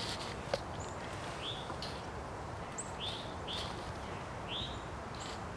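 Birds chirping: a handful of short, high chirps about a second apart over a steady outdoor hiss.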